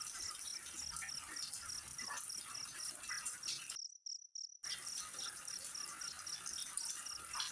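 Crickets chirping in a steady rhythm, about three chirps a second, over a high hiss. The hiss cuts out for under a second near the middle while the chirping carries on.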